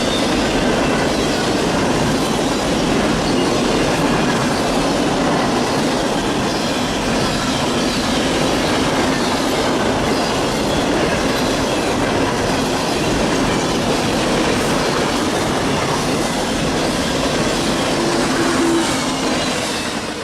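Freight cars of a Norfolk Southern trash train rolling past at close range: a steady rumble with wheels clacking over the rail joints and some wheel squeal, fading near the end.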